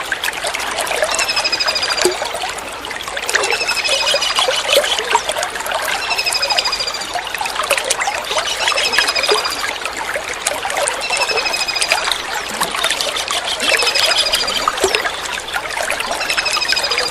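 Small kingfisher (tengkek udang) repeating a short, high, trilled call about every two seconds, each call falling slightly in pitch, over a steady trickle of running water.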